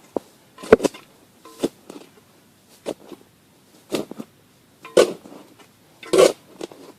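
Shovel digging into forest soil around a buried iron tow bar: irregular sharp chops and scrapes, roughly one a second.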